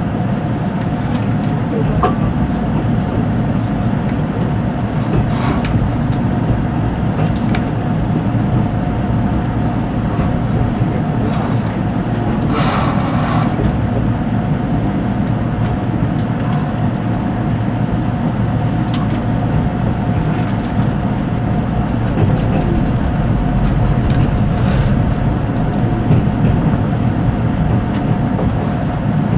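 Cabin noise inside a moving 485-series electric limited-express train: a steady low rumble with a faint steady hum and scattered clicks from the wheels on rail joints. About 13 seconds in there is a brief hiss.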